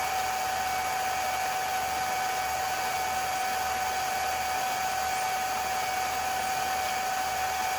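A steady machine hum with a constant high whine, unchanging throughout.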